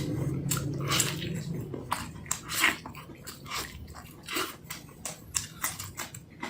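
Close-up wet chewing, lip-smacking and sucking of braised beef backbone meat, with irregular sharp smacks a couple of times a second.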